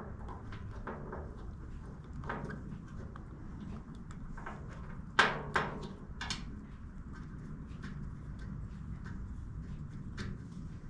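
Light clicks and clinks of small carburetor parts and tools being handled, with three sharper clacks about five to six seconds in, over a steady low hum.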